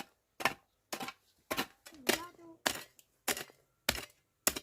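Steady series of sharp blows from a hand tool, about two a second, nine strikes in all, each short and cut off quickly.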